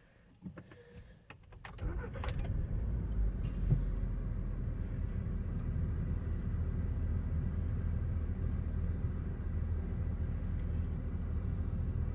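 Key clicks, then a Volkswagen-group 1.4 TSI four-cylinder turbo petrol engine cranks and catches about two seconds in, with a jolt shortly after, and settles into a steady cold idle. The owner describes the engine shaking as if misfiring for a moment after a cold start, with no check-engine light.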